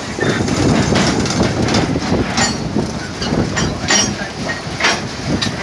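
Loaded freight wagons carrying copper-concentrate containers rolling past close by: a steady rumble of steel wheels on the rails, broken by sharp metallic clanks. The strongest clanks come a little before 4 seconds in and again near 5 seconds.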